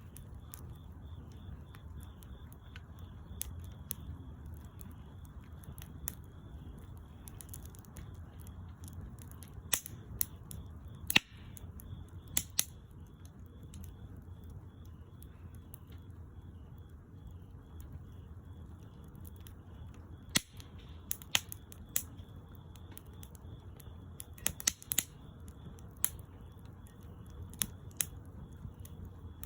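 Wood bonfire crackling: irregular sharp pops and snaps from the burning wood over a steady low noise from the flames, with two louder pops about eleven and twelve and a half seconds in.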